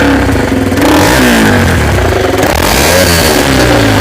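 Stunt motorcycle with a free-flow exhaust, revved hard over and over, its loud exhaust note rising and falling in pitch.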